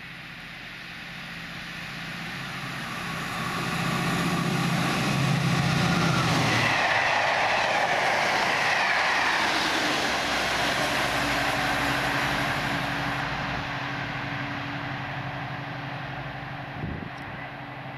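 A diesel-hauled test train running through at speed, with a Class 68 locomotive at each end. The leading locomotive's engine hum grows louder on the approach and drops away as it passes about six and a half seconds in. The rush and rumble of the coaches' wheels follows, and a steadier engine hum fades as the train draws away.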